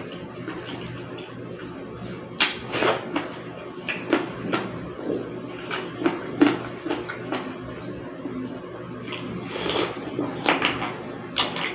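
Close-miked eating sounds of a person eating soup and rice. After a quiet first two seconds comes an irregular run of short clicks and smacks from chewing and utensils.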